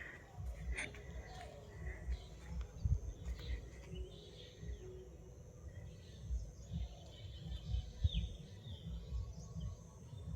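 Several wild birds chirping and calling, short notes with a few quick falling calls, over a low uneven rumble on the microphone.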